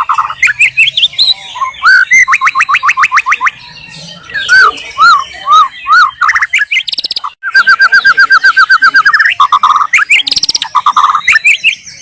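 White-rumped shama singing a loud, varied song: repeated slurred whistles, long fast trills and sharp chattering notes, with hardly a pause.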